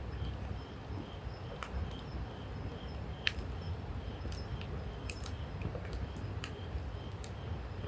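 Wood campfire crackling, with a dozen or so sharp pops at irregular intervals, the loudest about three seconds in, over a low steady rumble.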